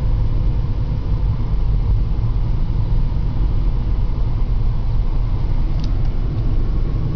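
Steady low rumble of a car on the road, heard from inside the cabin: road and engine noise.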